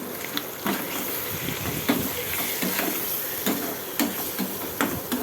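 Spoon stirring and knocking against a kadai of chicken liver frying in oil and spices, with irregular scraping clicks over a steady sizzle.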